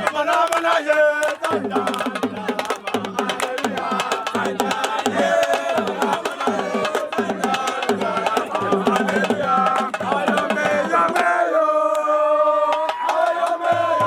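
Drumming with singing voices: quick drum strokes over a steady low beat. Near the end the low beat drops out for about two seconds while the voices hold long notes.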